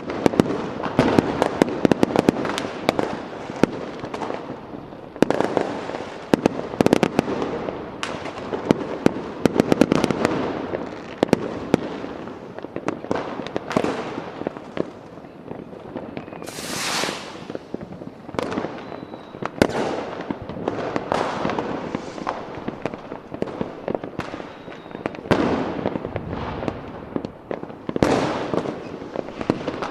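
Fireworks display: a continuous barrage of bangs and crackling bursts, with a rocket whistling up about 17 seconds in.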